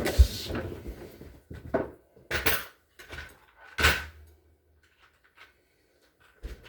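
Clattering and knocking of hard parts being handled: a short rustle with a sharp knock at the start, then a few separate knocks, the one about four seconds in the loudest.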